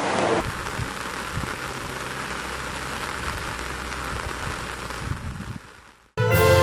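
Steady rain falling, a wide even hiss that fades out about five and a half seconds in. Music starts just before the end.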